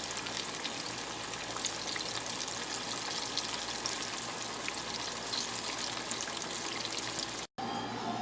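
Breaded wheat-gluten (seitan) pieces deep-frying in hot oil: a steady sizzle thick with fine crackles, cut off suddenly near the end.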